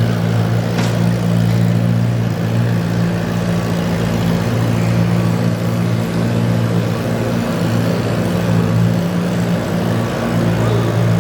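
Garden pulling tractor engine idling steadily at an even pitch, with one sharp click about a second in.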